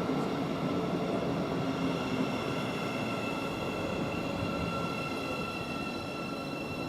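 Class 717 electric multiple unit drawing into the platform: a steady rolling rumble with a high, steady whine of several tones over it, easing off slightly as the train slows to a stop.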